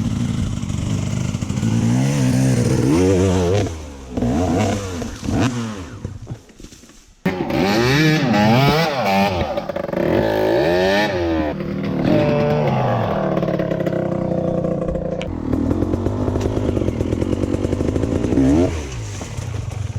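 Dirt bike engines revving, their pitch rising and falling over and over. The sound breaks off suddenly about seven seconds in, then the revving carries on.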